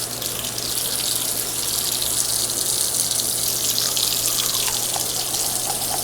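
Tap running steadily into a bathroom sink.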